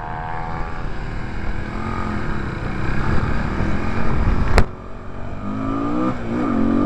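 Bucket racer's FXR150 motorcycle engine pulling away and accelerating, heard from on board, its note rising as the revs build. A single sharp knock about four and a half seconds in, after which the engine drops back briefly and then picks up again.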